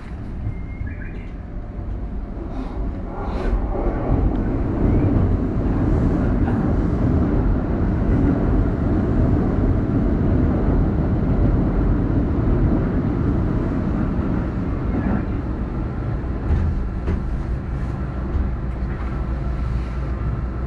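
Another train running past on the neighbouring track, heard from the cab of a stopped train: a rumble of wheels on rail that swells about four seconds in, stays loud through the middle and slowly fades, with a few clicks later on.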